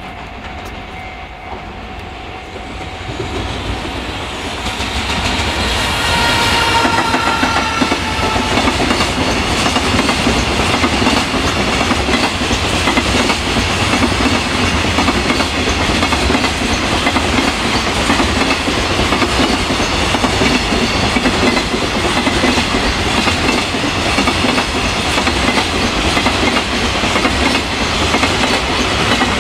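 EF210 electric locomotive hauling a freight train past: the sound grows over the first few seconds, a brief whine drops slightly in pitch as the locomotive goes by, then a long steady clatter of the freight wagons' wheels over the rail joints.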